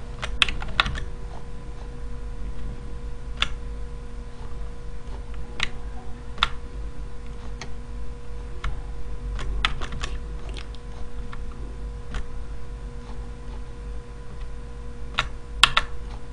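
Scattered sharp clicks from someone working at a computer, single and in quick pairs, spaced irregularly, over a steady faint hum.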